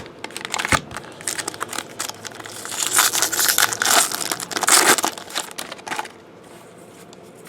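Wrapper of a Bowman Jumbo baseball card pack crinkling and tearing as it is opened, dense crackling that is loudest in the middle and stops about six seconds in.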